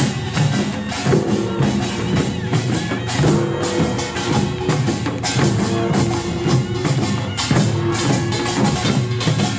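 Korean pungmul farmers' band playing at full tilt: kkwaenggwari small gongs clanging in a fast even rhythm over janggu hourglass drums, buk barrel drums and jing gongs, with held melody notes repeating throughout.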